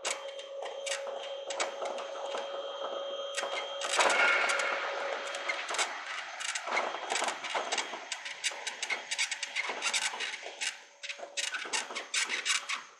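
Electric commuter train running at speed, heard from the driving cab: a steady whine with dense clicking and rattling over it, getting louder about four seconds in.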